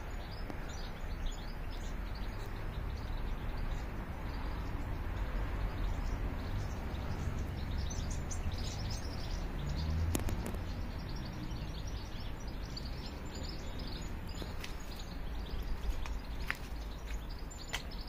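Many small birds chirping and twittering, the calls growing thicker from about halfway through, over a steady low outdoor rumble.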